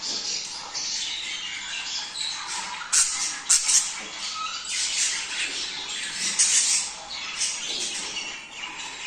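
A flock of budgerigars chattering and warbling without pause, with a few loud, sharp squawks about three seconds in.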